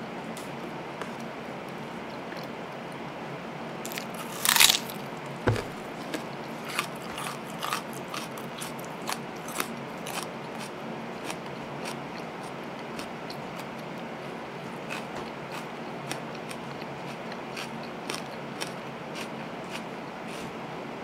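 Close-miked eating of a crispy fried chicken burger: one loud crunching bite about four and a half seconds in, then many small crisp crunches of chewing over a faint steady hiss.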